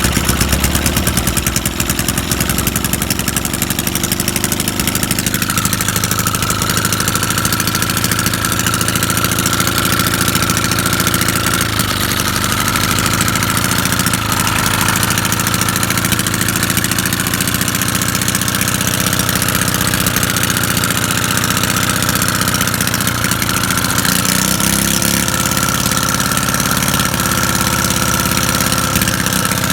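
Small gasoline engine of a Sears pressure washer running steadily. A thin high whine joins it about five seconds in, and its note shifts slightly again near the end.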